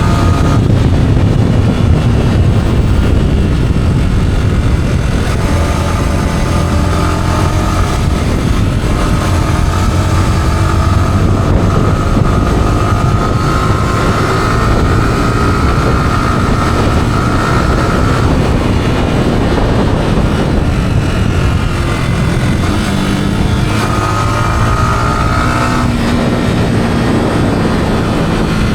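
Yamaha R15's single-cylinder engine through its stock exhaust while riding, the engine pitch rising and falling again and again as it revs and shifts, over a heavy rush of wind.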